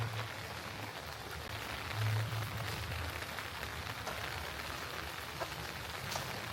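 Steady rain falling, with individual drops ticking sharply on nearby surfaces. A few dull low thumps sound underneath, the loudest about two seconds in.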